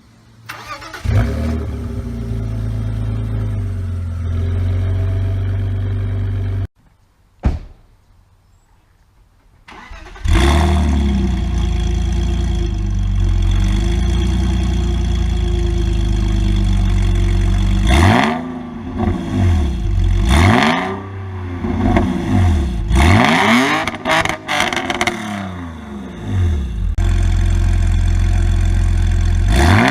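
BMW E46 with a custom exhaust (headers, muffler and resonator deleted, Y-pipe into quad tips) starting and idling. The engine stops abruptly about seven seconds in and starts again about ten seconds in. It is then revved several times, each rev rising and falling, before settling back to idle.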